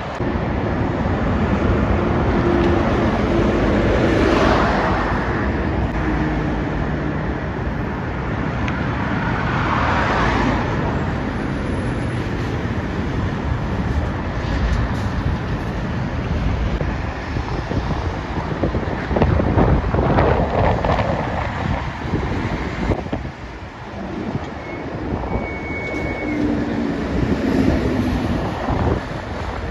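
Road traffic with heavy trucks passing at speed: continuous tyre and engine rush, with louder pass-bys swelling and fading about four, ten and twenty seconds in.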